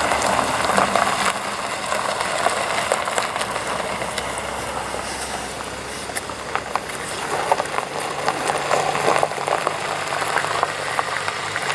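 Car engines running at low speed as cars roll by, a steady low hum with scattered small clicks.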